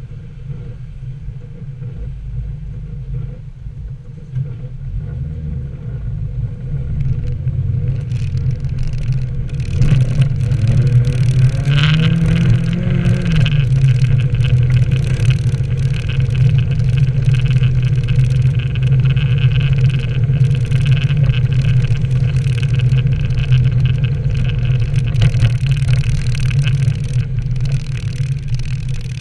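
Nissan 240SX S13's engine running as the car is driven, rising in revs about ten seconds in and then holding louder and steadier under load for the rest of the stretch.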